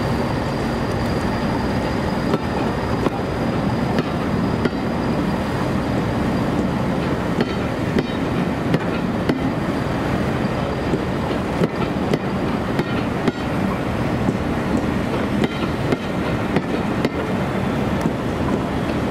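Diesel-hauled heritage train running: a steady rumble with frequent irregular clicks, and a faint high-pitched whine that fades out about halfway through.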